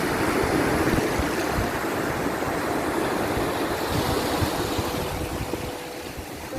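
Ocean waves washing in a steady rush of surf, swelling during the first second and easing off near the end, with a few faint held tones.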